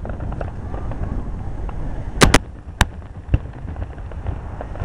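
Aerial fireworks shells bursting: a quick pair of sharp bangs about two seconds in, another bang half a second later and a softer one soon after, over a low background rumble.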